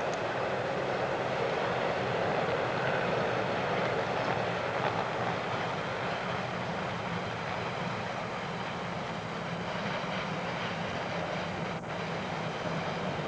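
Passing train running on the main line: a steady rumble and roar, with a low drone growing a little stronger over the second half.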